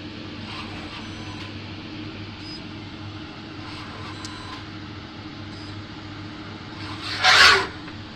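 Automatic soldering machine running through its soldering cycle: a steady low hum with faint short mechanical sounds as it works. About seven seconds in comes a short, loud hiss lasting about half a second.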